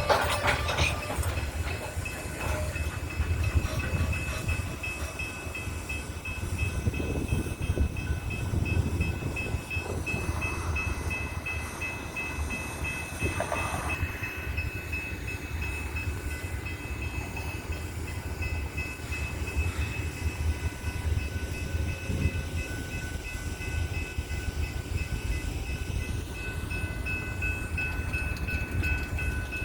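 Loaded coal train rolling, a steady low rumble of the wheels and cars with a faint steady high-pitched whine over it. A train horn blast cuts off right at the start.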